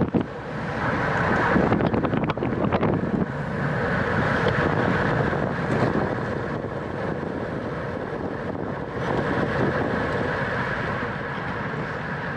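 Steady rushing wind noise on the microphone of a camera riding along in a bicycle road race, with a few short clicks about two to three seconds in.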